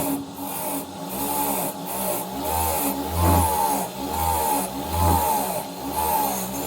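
Hand tool worked back and forth on the pistol's metal, rasping in steady strokes about every second, with the pitch rising and falling on each stroke.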